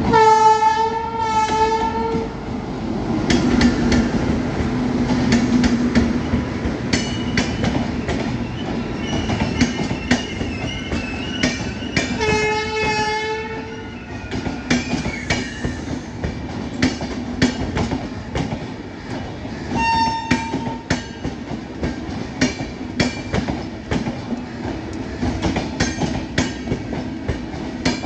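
Indian Railways WAP-7 electric locomotive hauling an express train past at speed. Its horn sounds two blasts at the start, another about twelve seconds in and a short one near twenty seconds, over the steady rumble and clickety-clack of the coach wheels on rail joints. A high wavering wheel squeal runs from about seven to sixteen seconds.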